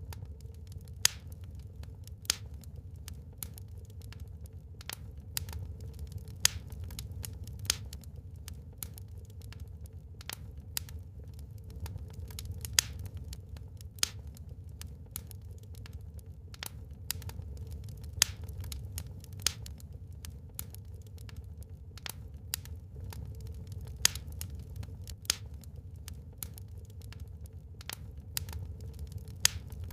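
Wood fire burning in a fireplace, crackling with irregular sharp pops and snaps over a steady low rumble; a few pops stand out much louder than the rest.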